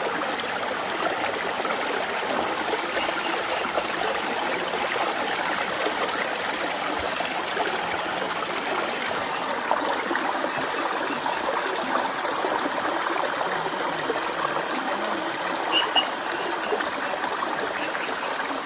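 Steady rush of running water, an even crackling hiss that holds level throughout. A brief high double chirp sounds about sixteen seconds in.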